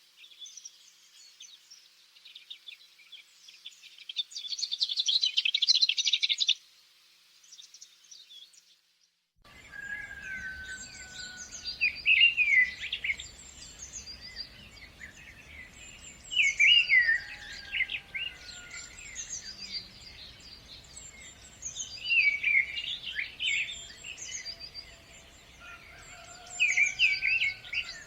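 Birds chirping and singing. A dense run of rapid high chirps gives way to a brief lull. Then a song phrase of quick high notes and lower drawn-out whistles repeats about every five seconds over a low, steady background noise.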